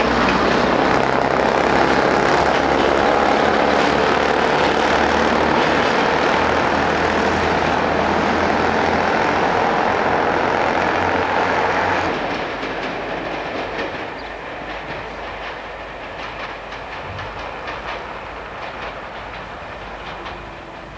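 A train running past close by: a loud, steady rumble of running gear and wheels with a low hum. About twelve seconds in it drops sharply to a quieter rumble with light, scattered wheel clicks.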